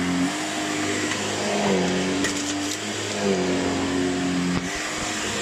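Shark Lift-Away NV602UKT upright vacuum cleaner running, its motor hum stepping down and back up in pitch a few times as the suction load changes.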